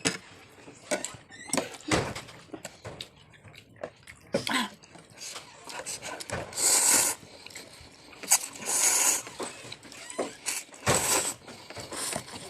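Eating at a table: chewing, with spoons and dishes clicking and knocking, and two short hissing noises in the middle.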